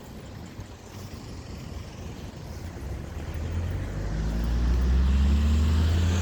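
A road vehicle approaching, its low engine drone growing steadily louder over the last few seconds.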